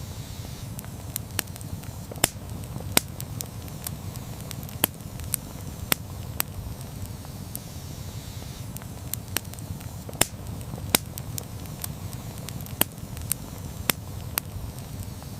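Wood campfire burning, with a steady low rumble of the flames and irregular sharp pops and crackles several times a second.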